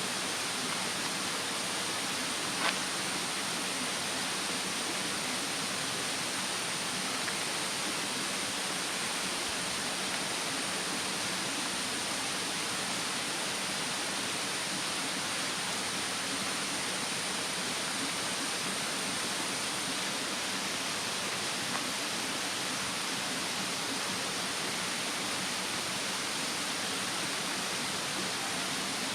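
Steady rushing of a mountain stream, with the odd crackle of a wood fire and one sharp pop a little over two seconds in.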